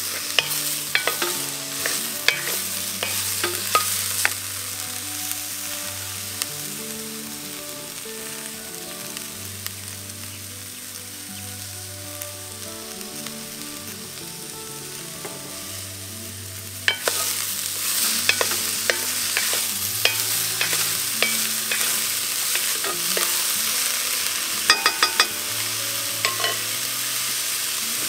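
Broccoli sizzling as it stir-fries in a cast iron pot, with a wooden spoon stirring and clicking against the pot. The sizzle and clicking grow louder about two-thirds of the way in.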